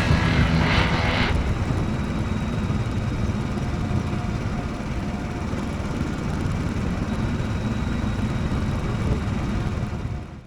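Motorcycle on the move: a steady rumble of engine and wind rush on the microphone. The tail of background music fades out in the first second or so.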